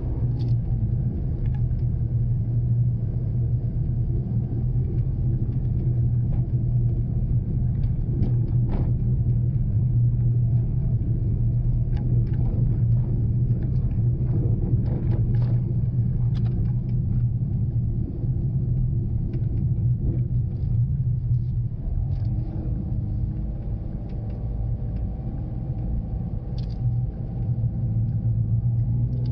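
Daihatsu Mira Cocoa kei car under way: a steady low rumble of engine and road noise, with scattered light ticks and knocks. The rumble eases for a while about two-thirds of the way through and picks up again near the end.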